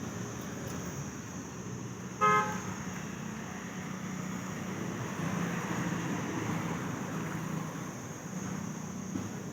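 A tractor horn beeps once, briefly, about two seconds in. Under it a diesel tractor engine runs steadily with a low hum.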